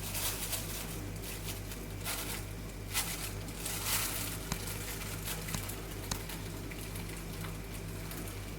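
Irregular rustling and crinkling as sticky sugar dough is handled and portioned, several short bursts over a steady electrical hum.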